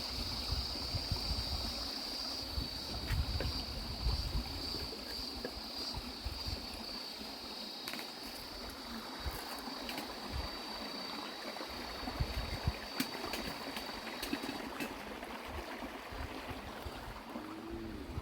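Open-air river ambience: a steady high-pitched insect drone that stops about fourteen seconds in, over uneven low rumbling of wind on the microphone and water around the boat, with a few faint clicks.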